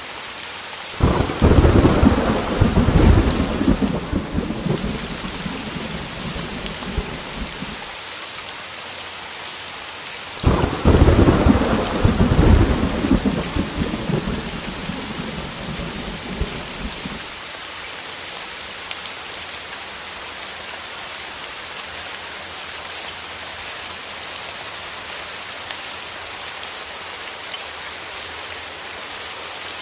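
Heavy rain falling steadily, with two peals of thunder: a sudden crack and rumble about a second in that dies away over several seconds, and a second one about ten seconds in that likewise rolls off.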